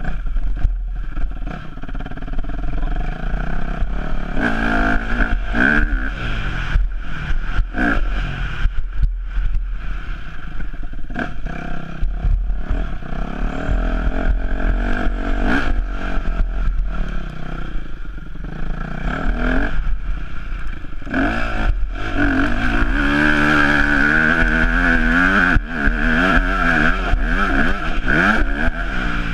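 Yamaha YZ250F motocross bike's four-stroke single-cylinder engine revving up and falling off again and again as it is ridden hard through the gears, with its longest and loudest pull about 22 seconds in. Frequent short knocks and clatter sound over the engine.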